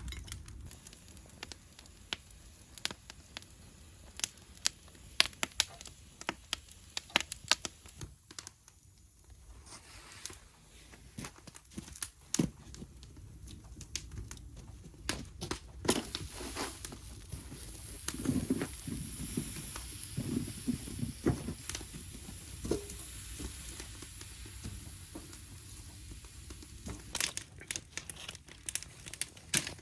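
Irregular crinkling and rustling, broken by many sharp clicks and knocks at uneven intervals, with a denser stretch of duller knocks a little past halfway.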